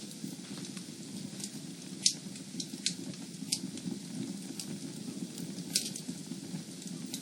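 Fire in a fireplace burning steadily with a low rush, and crackling with sharp pops scattered through it; the loudest pop comes about two seconds in, another just before six seconds.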